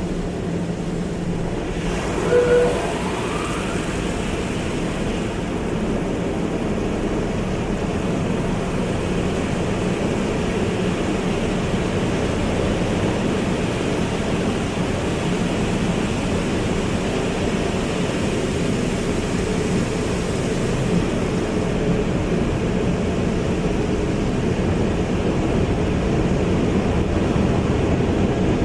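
Automatic car wash running: a steady rush of water spray over a low machinery hum, with a short squeak about two and a half seconds in.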